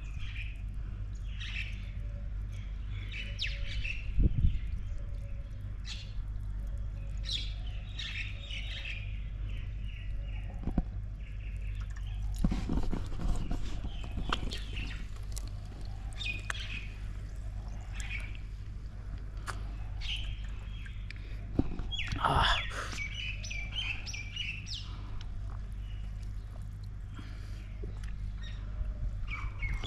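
Birds chirping and calling on and off, short scattered calls, over a steady low hum. A knock about four seconds in and a louder rustle about 22 seconds in.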